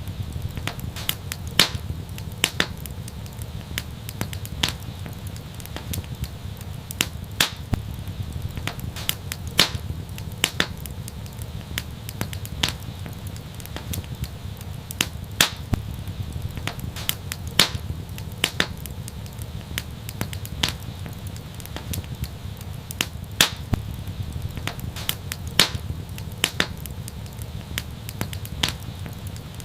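Wood fire crackling, with irregular sharp pops and snaps several times a second over a steady low rumble of the flames.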